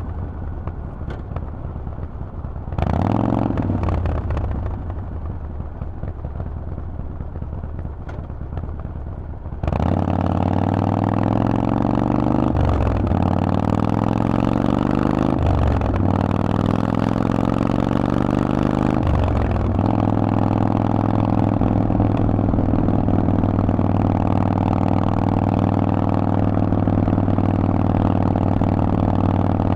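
Harley-Davidson Forty-Eight's V-twin through a Vance & Hines exhaust: running quietly at first with a brief rev about three seconds in, then accelerating hard from about ten seconds in, pitch climbing and dropping at three upshifts, then holding a steady cruise.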